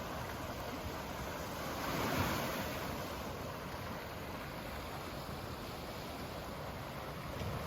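Sea waves washing onto the shore in a steady rush, with one wave surging louder about two seconds in.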